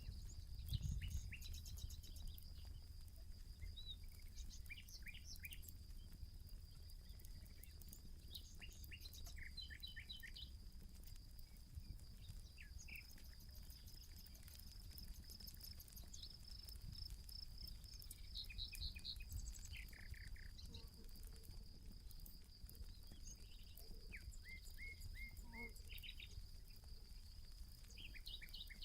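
Small birds chirping in short scattered calls over a steady high-pitched insect trill, with a low rumble underneath.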